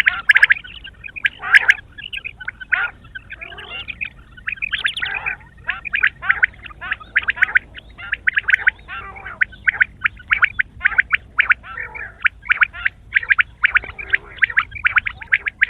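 Quail calling: a fast run of short, repeated notes, several a second, kept up throughout.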